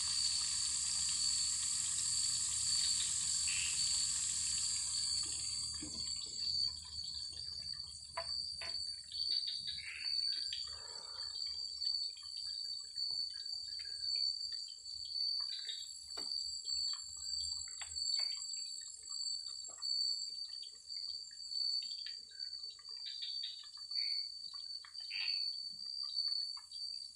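Tilapia frying in oil in a wok: a strong sizzle for the first five seconds that thins to scattered pops and crackles. A steady, high, pulsing insect trill runs underneath throughout.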